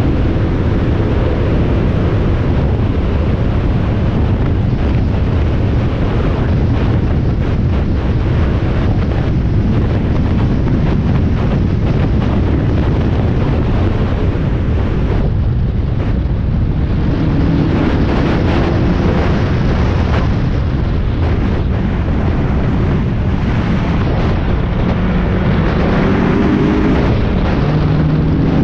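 Spec Miata race car's four-cylinder engine heard from on board at track speed, buried in loud wind buffeting on the microphone. In the second half the engine note climbs in short rising runs as the car accelerates.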